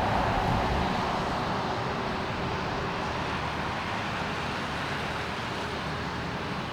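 Jet airliner engines heard at a distance, a steady rushing noise that slowly fades.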